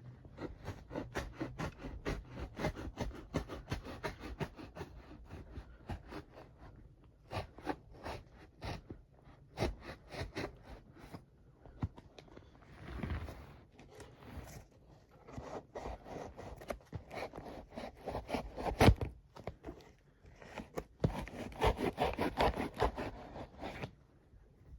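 Knife sawing through a cardboard box: rapid back-and-forth scraping strokes in long runs with brief pauses, one stroke much louder late on. The blade is dull and due for sharpening.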